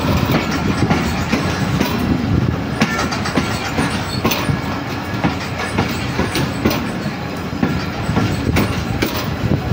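Passenger train running along the track: a steady rumble of steel wheels on rail, with irregular clicks and knocks from the wheels and coaches.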